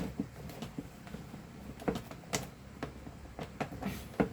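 Hand Phillips screwdriver working at a stripped screw in a plastic vacuum cleaner housing: irregular clicks and knocks of the driver tip and the plastic body being handled. The screw head is stripped and does not come out.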